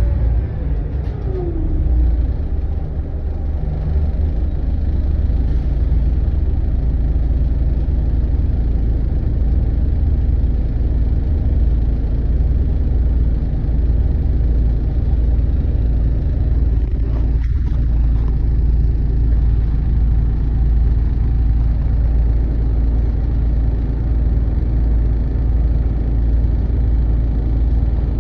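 Volvo B8RLEA bus's diesel engine running under way, heard from inside the bus: a steady low rumble, with a short falling whine about a second in.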